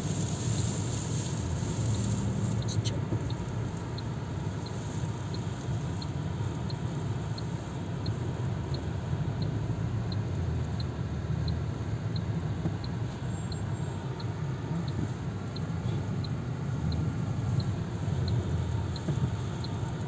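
Sandstorm wind buffeting a car, a steady low rumble with a hiss above it, and a faint regular tick a little more than once a second.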